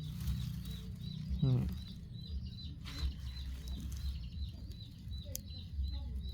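An even run of short high chirps, about three a second, over a steady low rumble.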